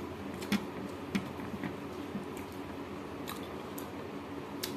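Close-up eating sounds: a woman chewing, with irregular sharp wet clicks and smacks about twice a second, over a steady low hum.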